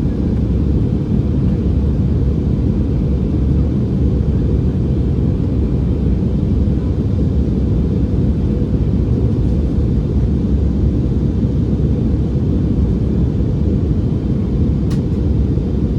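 Airbus A319 cabin noise in flight: a steady, even low rumble of engine and airflow noise heard from inside the cabin.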